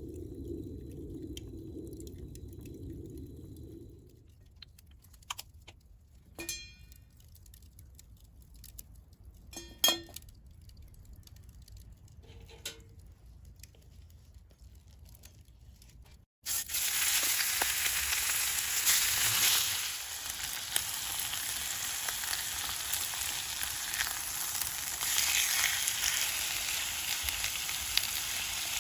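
Food sizzling loudly in a frying pan over a wood fire, starting abruptly a little past halfway. Before that it is quiet apart from a few light clinks.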